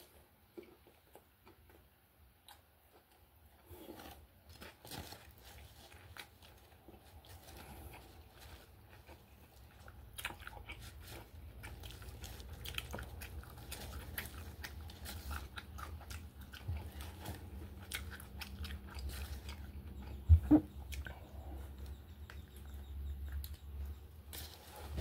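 A person chewing and biting into beef steak tacos in soft tortillas, with wet mouth smacks and clicks that grow denser about ten seconds in, and crinkling of the aluminium foil wrapping. A low steady hum runs underneath from about ten seconds, and a couple of sharp knocks come about twenty seconds in.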